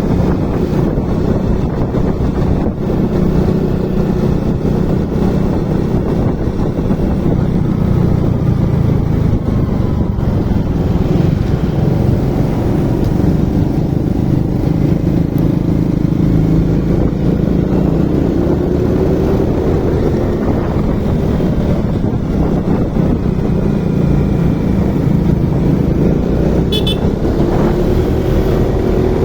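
Motorcycle engine running while riding, its pitch rising and falling as the rider speeds up and slows down, with wind rushing over the microphone.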